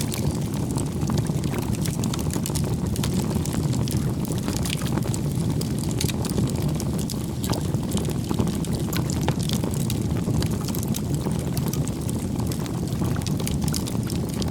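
Wood campfire burning: a steady low rush of flames with frequent sharp crackles and pops of burning wood.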